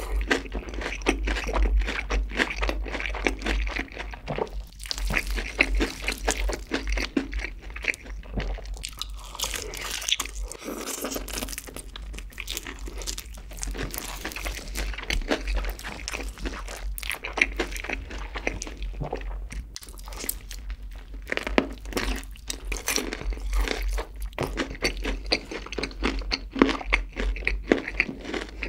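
Crispy fried chicken drumstick being bitten and chewed close to the microphone: dense, irregular crunching of the fried crust throughout, with wet chewing between.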